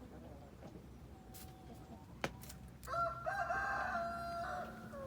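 A rooster crows once, about three seconds in: a single call lasting about two seconds, held mostly level in pitch. A few faint clicks come before it.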